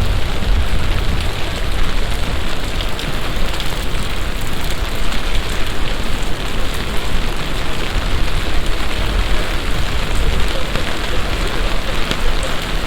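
Heavy summer shower falling in a loud, steady hiss, with a steady low rumble underneath.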